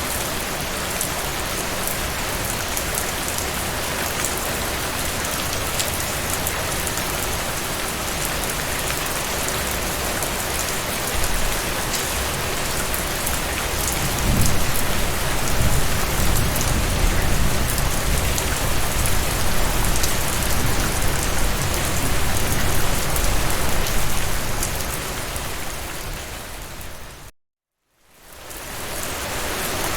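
Steady rain falling on a surface, with scattered drop ticks. Around the middle a low rumble of thunder swells and then dies away. Near the end the rain fades out to a moment of silence and fades back in, like a loop seam.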